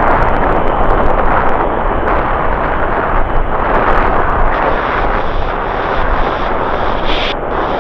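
Jet airliner engines roaring loud and steady on the runway at high thrust.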